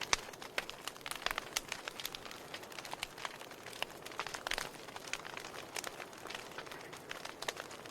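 Wood fire burning in a fireplace, with frequent irregular sharp crackles and pops over a steady soft hiss.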